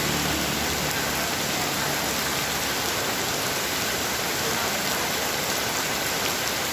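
Heavy rain falling steadily, a dense, even hiss. A low hum underneath fades out in the first two seconds.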